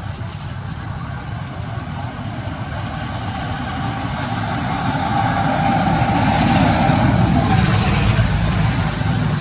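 A motor vehicle passing on a nearby road: a steady engine and tyre rumble that grows louder toward the middle and eases off near the end.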